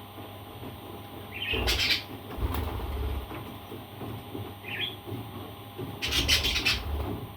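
Pet parrot making a couple of short, soft chirps amid rustling and scraping noises, with two louder scrapes, one about a second and a half in and one about six seconds in.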